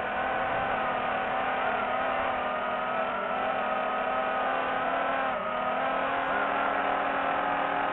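Quadcopter drone's motors and propellers whining steadily, the pitch dipping briefly about five seconds in as the motors slow and pick up again.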